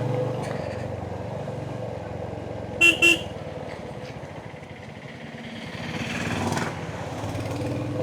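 Royal Enfield Hunter 350's single-cylinder engine running steadily on the move. Two short, loud horn toots come about three seconds in, and there is a brief louder rush of noise a little past six seconds.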